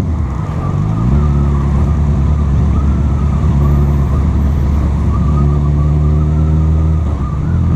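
Honda CB1000R's inline-four engine pulling the bike along, its pitch climbing as it accelerates about a second in, then holding fairly steady before falling off near the end.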